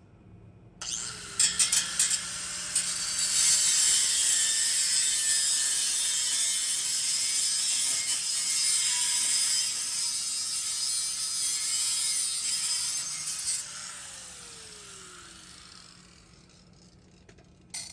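Handheld power tool, most likely an angle grinder, cutting through steel exhaust pipe for about 12 seconds. It has a steady hiss with a few sharp clicks at the start. Its motor speeds up at the start and winds down at the end.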